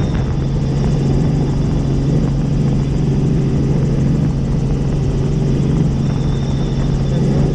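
Helicopter running steadily in flight: a constant, loud drone of rotor and engine with a strong low steady tone.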